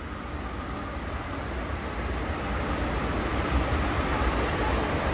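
Electric commuter train passing along an elevated concrete viaduct: a steady rumbling rush that grows slowly louder.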